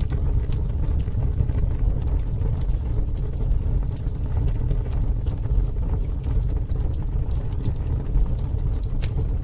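Campfire burning: a steady low rumble with scattered sharp crackles and pops of burning wood, a few more of them near the end.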